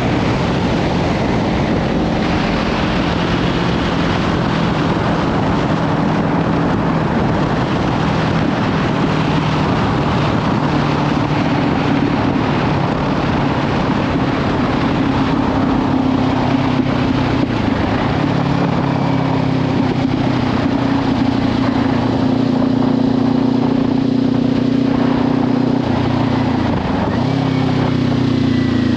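Kawasaki Ninja 500's parallel-twin engine through a Leovince slip-on exhaust, running at road speed under heavy wind noise on the microphone. The engine note dips briefly twice, and its pitch falls near the end.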